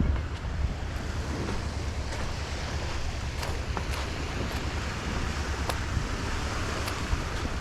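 Wind buffeting the microphone over the wash of surf on the beach, with a few faint ticks.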